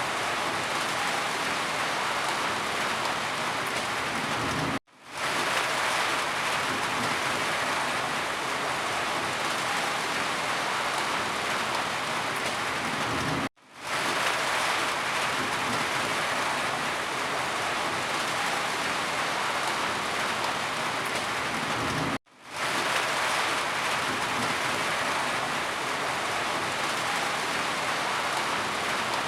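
Steady rain falling, a dense even hiss. It cuts out abruptly three times, about every nine seconds, and swells back within about a second each time.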